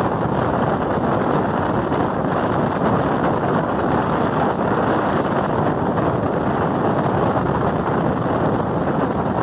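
Wind rushing over the microphone together with the steady running rumble of a passenger train at speed, heard from beside the coach side.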